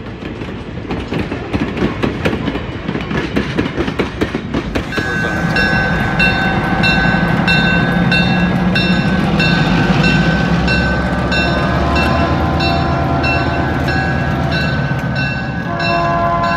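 Railroad passenger cars rolling past with a fast clickety-clack of wheels over the rail joints. About five seconds in this gives way to a diesel locomotive, an EMD RS1325, running with a low engine hum while its bell rings steadily. Near the end, lower ringing tones join.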